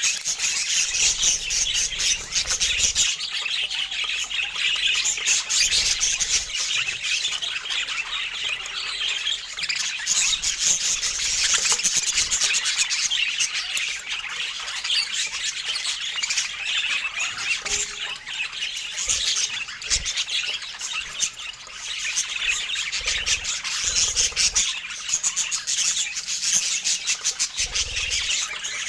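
Budgerigars chattering and warbling: a dense, unbroken stream of high chirps and squawks.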